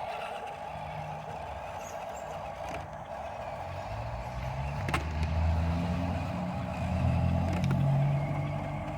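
Huina 1573 remote-control dump truck running, its electric drive whining steadily. From about four seconds in, a louder low rumble with a pitch that shifts joins it until near the end, with a sharp click in the middle.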